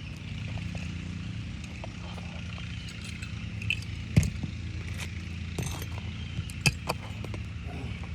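Sharp metallic clicks and scrapes of a roofing pry bar working nails out from under asphalt shingles, with two louder knocks about four and six and a half seconds in, over a steady low hum.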